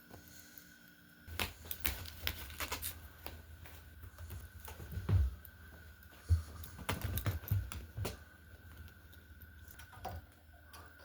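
A kitten's claws scrabbling at a toy: an irregular run of quick clicks and scratches, with a low rumble underneath from about a second in.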